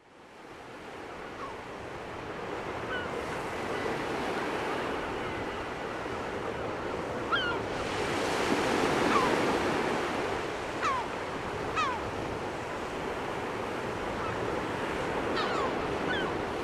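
Sea waves washing on the shore with some wind, fading in at the start, and a few short, high, falling calls over them.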